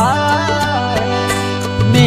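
Hindi song between sung lines: a melodic line bends and slides in pitch over steady, sustained accompaniment with a low drone.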